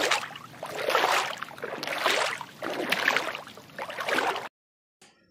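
Water splashing and swishing in surges about once a second, the sound played for a fish, cutting off suddenly near the end.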